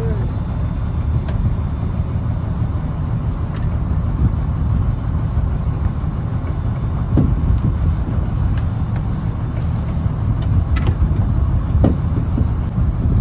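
Fishing trawler's diesel engine running steadily, a heavy low rumble, with a few faint knocks over it.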